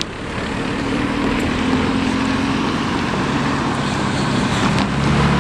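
Motor vehicle engine droning nearby over steady road noise; a deeper, louder hum comes in near the end.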